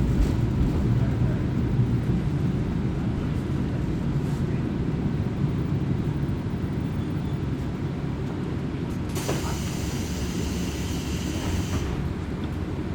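Diesel railcar running along the line, heard from inside the cabin: a steady low rumble of engine and wheels on rail. About nine seconds in, a high hiss with faint whistling tones starts and stops suddenly about two and a half seconds later.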